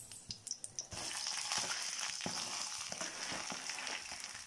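Kalathappam rice batter sizzling in hot coconut oil in a pan: a steady hiss that swells about a second in, with a few light clicks.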